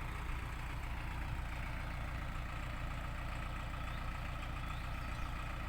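ISEKI NT554 tractor's diesel engine running steadily, with an even low throb.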